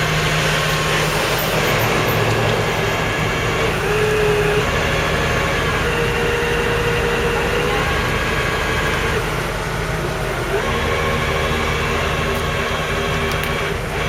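Tow truck engine running steadily, with a whine that comes and goes between about four and eight seconds in and a shift in the engine's hum near the end.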